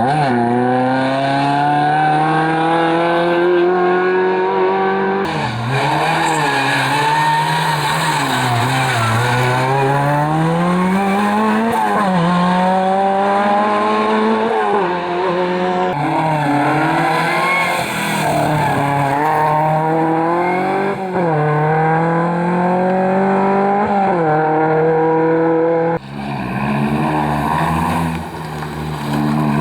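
Rally cars at full attack, their engines revving hard through the gears: pitch climbs, drops at each shift or lift-off, then climbs again, with some tyre squeal. The sound changes abruptly a few times as one car gives way to the next.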